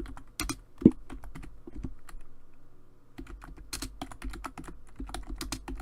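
Typing on a computer keyboard: irregular keystrokes, with one louder knock about a second in, over a faint steady hum.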